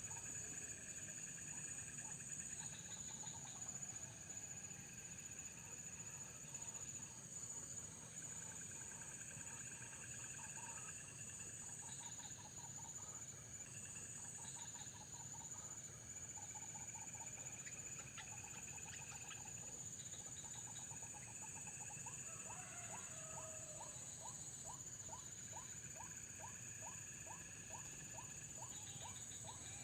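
Crickets and other insects chirring, with a steady high-pitched drone and pulsing trills. About two-thirds of the way through, a fast series of short repeated animal calls, two or three a second, joins in and keeps on.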